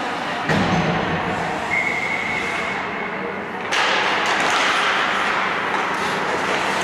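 Ice hockey game sounds in a rink: a knock about half a second in, then a steady rushing hiss that gets louder a little past the middle.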